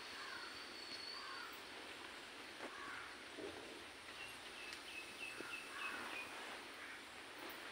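Birds calling over a steady outdoor hiss: a thin high whistle near the start, then a quick run of about seven chirps in the middle, with a few lower calls in between.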